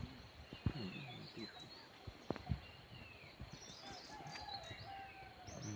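Faint forest birdsong: a few short, falling whistled calls, with a couple of sharp knocks.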